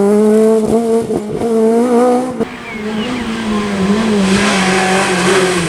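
Renault Clio rally car's engine at high revs, pulling hard with a steady note. The note breaks off abruptly about two and a half seconds in, then picks up again, with a broader hiss joining in near the end.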